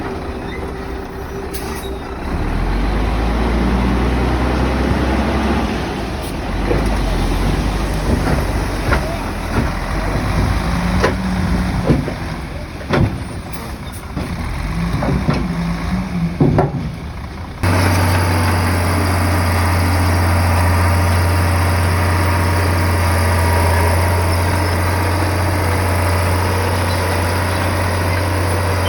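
Komatsu bulldozer's diesel engine working under varying load, with repeated sharp knocks and clanks. About two-thirds of the way through, the sound changes abruptly to a steady low engine drone.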